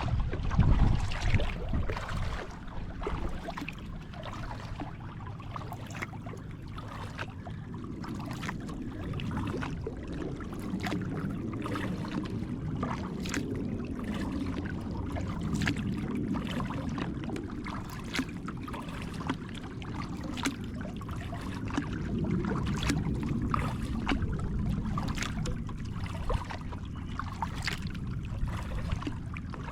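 Water trickling and lapping around a kayak as it is paddled, with many small sharp drips and ticks throughout. It is louder for the first couple of seconds, then steady.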